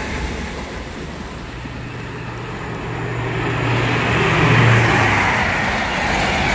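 Class 43 HST power car passing at speed, its diesel engine note swelling to a peak about four and a half seconds in and then dropping away. A rising rush of wheels and air from the passing train carries on to the end.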